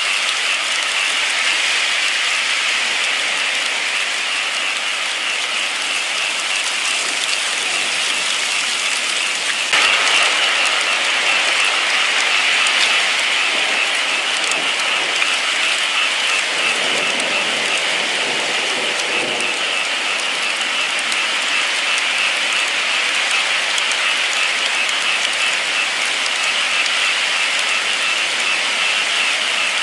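Steady rain falling as a continuous hiss, stepping up slightly in level about ten seconds in.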